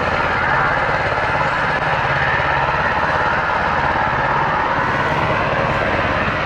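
Military helicopter running: steady, loud rotor and engine noise with a fast, even beat from the blades.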